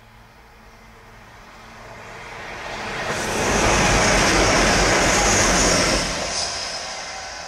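A First Hull Trains Class 180 diesel multiple unit passing a level crossing at speed. A rushing, hissing train noise builds over a few seconds and is loudest for about three seconds as the train goes by. It drops off sharply as the last car passes, then fades as the train moves away.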